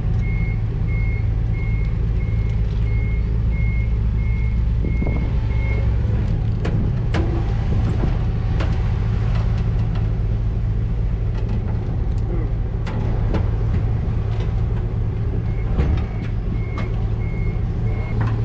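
A vehicle engine idling steadily, with a reversing alarm beeping about twice a second. The beeping stops about six seconds in and starts again near the end. Knocks and clunks come through in between.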